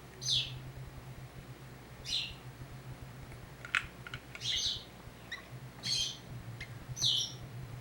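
Baby bird's shrill begging calls: five short chirps, each sliding down in pitch, about every second and a half, with a few light clicks in the middle and a steady low hum underneath.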